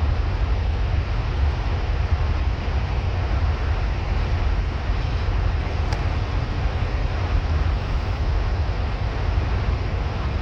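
Steady engine and road rumble heard from inside a moving bus, deep and even throughout.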